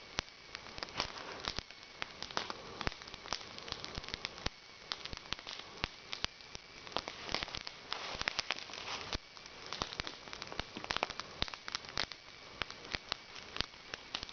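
Campfire of burning wooden pallet crackling, with many irregular sharp pops and snaps over a steady hiss.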